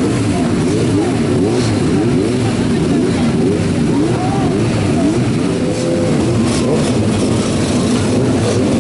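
Several racing motorcycle engines running and revving at once, their pitches rising and falling and overlapping.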